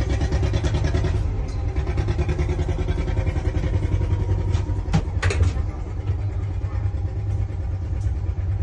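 Boat engine running steadily with a fast, even chugging pulse, with a couple of sharp knocks about five seconds in.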